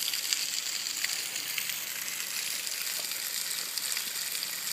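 Thin trickle and drips of a nearly dried-up waterfall spattering onto rock: a steady hiss with scattered small drip ticks.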